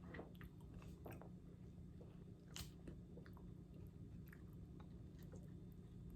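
Faint close-up chewing of crisp apple with caramel dip: irregular wet crunches and clicks, one louder crunch about two and a half seconds in.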